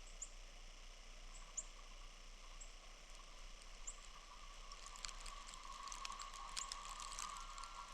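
Faint, short, high chirps of a small bird, a few times over the first few seconds, over a steady outdoor hiss. About five seconds in, a light patter of many small ticks starts.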